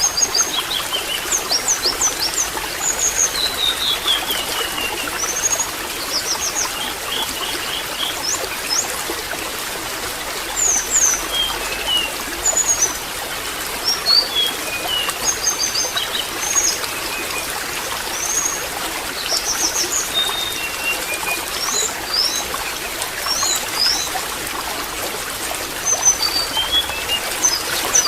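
Water trickling and splashing steadily, with small birds giving many short, high chirps and quick sweeping notes over it.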